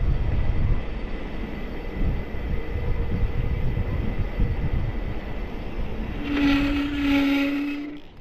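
Wind buffeting the microphone on a moving mountain bike, a low rumble. About six seconds in, a steady pitched tone, like a horn, sounds for nearly two seconds.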